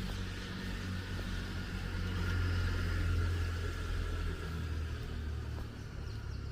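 Street traffic: a motor vehicle's low engine rumble, swelling about two seconds in and easing off toward the end.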